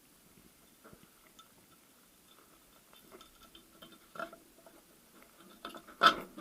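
Scattered small clicks and taps of gearbox parts and tools being handled during reassembly, growing busier after about three seconds, with one sharp loud knock near the end.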